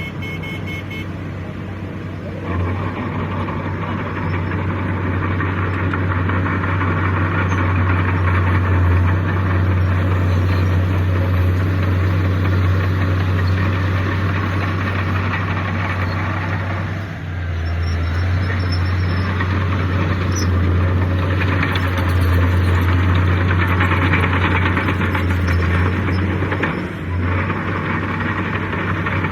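Heavy diesel engine of earthmoving machinery running hard and steadily with a deep hum. It grows louder a couple of seconds in and eases off briefly twice, about halfway through and near the end.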